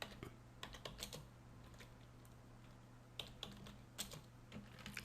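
Faint computer keyboard typing: scattered keystrokes in a short burst in the first second, then more from about three seconds in, over a low steady hum.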